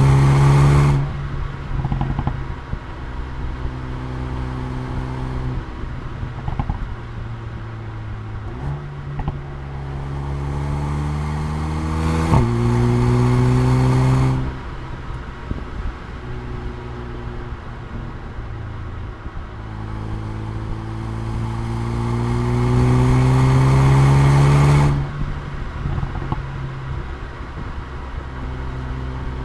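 Mercedes-AMG A35's turbocharged 2.0-litre four-cylinder pulling up through the revs several times, with a quick upshift about twelve seconds in. Each time the throttle is lifted, the exhaust pops and crackles on the overrun.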